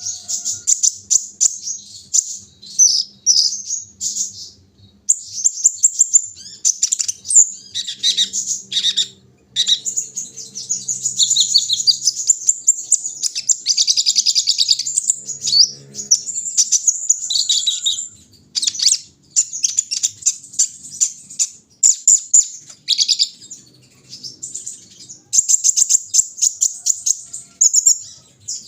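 Kolibri ninja sunbird singing: long strings of fast, high-pitched chirps and twitters, broken by short pauses.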